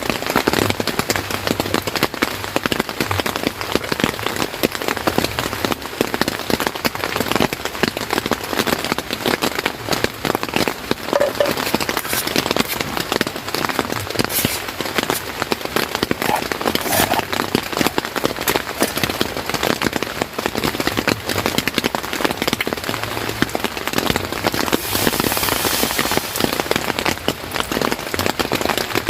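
Rain falling steadily, a dense, even hiss of countless drops striking a surface.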